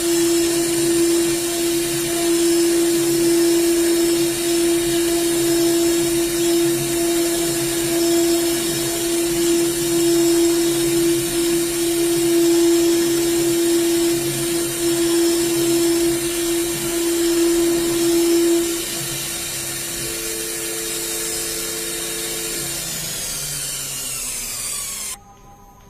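4.5 kW air-cooled CNC router spindle running with a steady high-pitched whine. It gets quieter about three-quarters of the way through, then falls in pitch as the spindle winds down, and cuts off just before the end.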